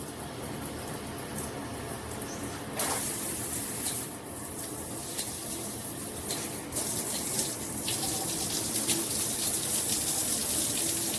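Water spraying from a Hibbent rainfall/handheld shower head combo, a steady hiss of falling water that gets louder about three seconds in and again about seven seconds in.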